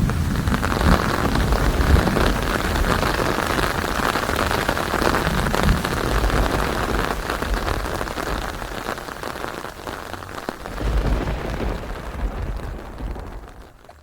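Steady heavy rain falling, with low rolls of thunder underneath; a rumble swells about eleven seconds in, and the whole sound fades down near the end.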